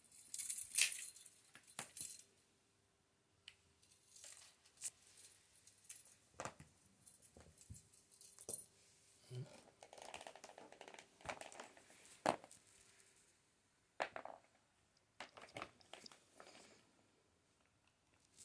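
Faint, scattered clicks, taps and short crinkling rustles of a small cat pawing and scrabbling at something it wants to get into.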